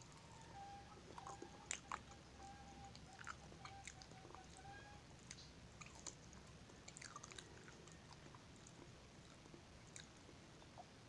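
A person biting into and chewing soft fried banana, with faint mouth clicks and smacks scattered through, the loudest pair about two seconds in.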